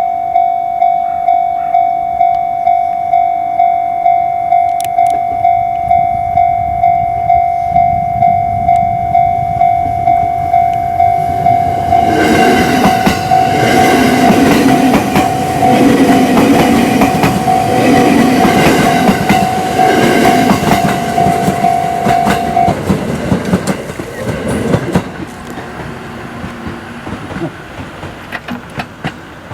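A railway level-crossing alarm rings a steady electronic tone, pulsing about twice a second. Almost halfway through, an electric train passes, its wheels clacking over the rail joints. The alarm stops about two-thirds of the way in, and the train sound fades soon after.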